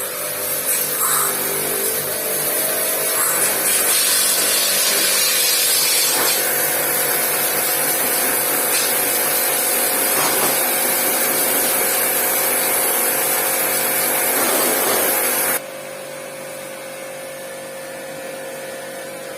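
Pressure washer running, its motor humming under the steady hiss of the water jet spraying the air conditioner. About fifteen seconds in the spray cuts off suddenly and the motor keeps running more quietly.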